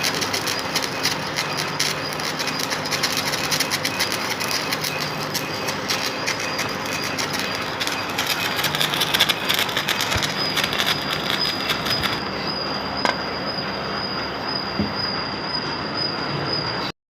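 Electric arc welding on a metal shaft: a continuous crackling, frying hiss with a thin steady high whine over it.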